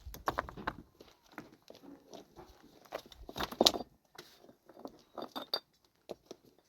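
Irregular light knocks and clinks of small hard objects, a few with a brief ring.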